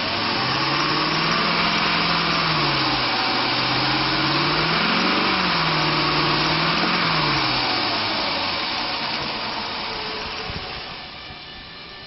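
2004 Dodge Ram 1500's 4.7-litre V8 running, revved briefly twice, about five and seven seconds in, with a strong hiss over it. The engine sound dies away near the end.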